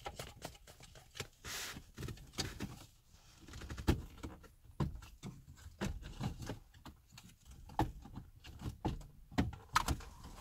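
Plastic dashboard trim being worked loose around a car's head unit, with a run of irregular clicks, taps and knocks from the clips and panels.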